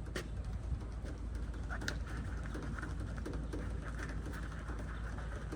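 A bird cooing, a short run of low notes about halfway through, over a steady low rumble.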